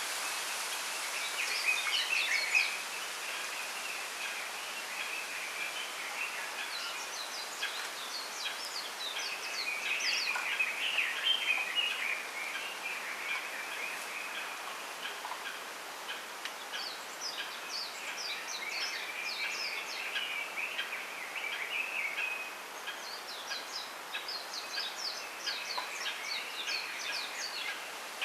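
Small wild birds chirping in a bamboo grove, in four bouts of rapid, high chattering calls, over a soft steady hiss.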